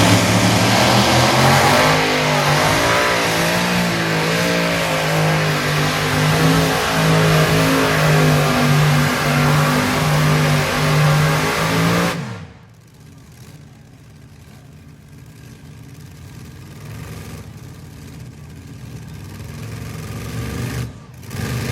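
Modified pulling tractor's engine running flat out through a pull at a steady high pitch, then cutting off suddenly about twelve seconds in; a much quieter engine sound follows, slowly growing louder near the end.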